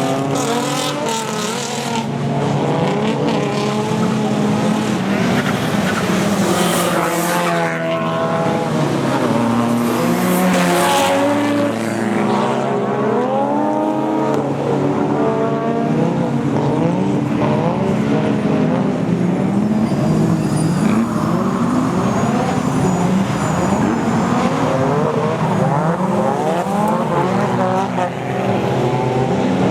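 Drift cars' engines revving hard up and down, several engine notes overlapping as cars slide through, with bursts of tyre squeal.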